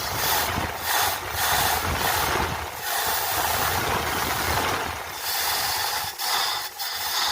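Slant-six engine of a 1964 Dodge Dart running rough just after a cold start, its level dipping briefly several times. The slight skip is put down by the owner to spark plug wires not yet replaced.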